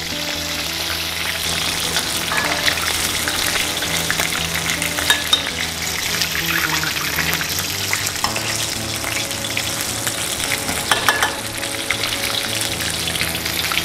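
Chicken breast pieces frying in hot oil in a wok, a steady sizzle with many small crackles and pops. The chicken is being left unstirred to sear on one side until it browns and comes loose from the wok.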